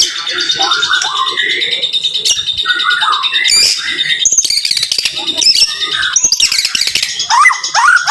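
White-rumped shama (murai batu) singing a rapid, dense stream of varied whistles and chattering phrases, the close, fast 'tembakan' song. Near the end it breaks into a quick run of rising notes.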